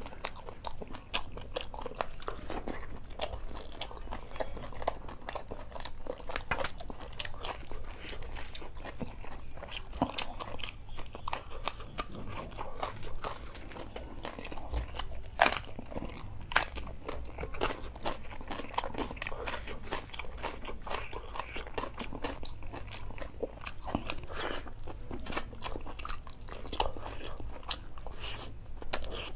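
A man chewing and biting mouthfuls of chicken curry eaten by hand, with frequent short wet clicks and smacks of the mouth and fingers.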